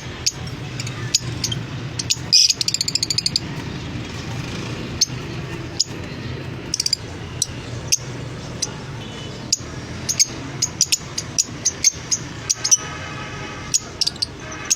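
Small cage birds chirping, with many short high chirps scattered irregularly and one rapid trill about two and a half seconds in, over a steady low hum.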